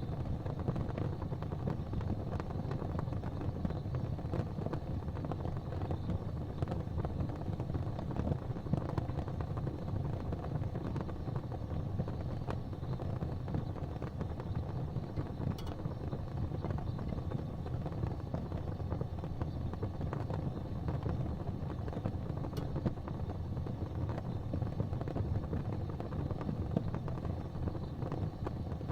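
Gas fireplace flames burning with a steady, low rushing sound, with two faint clicks.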